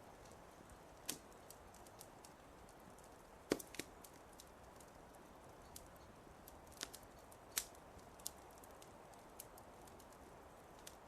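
Fireplace crackling: a low hiss of burning wood with scattered sharp pops and snaps, the loudest about three and a half seconds in.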